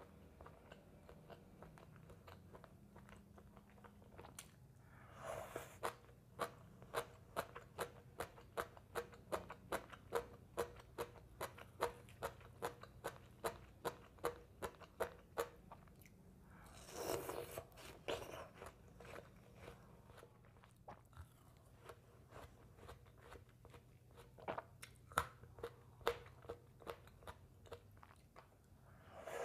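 Close-miked chewing of crunchy food, a steady crunch about twice a second, with two longer, wetter bites about five seconds in and again in the middle.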